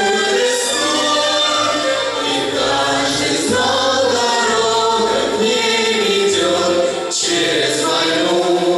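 A choir singing a wartime waltz song over instrumental accompaniment, with a bass line stepping from note to note.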